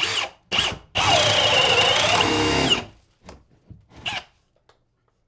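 Power drill run in short bursts: two quick blips, then a run of about two seconds whose motor pitch sags under load and recovers before it stops.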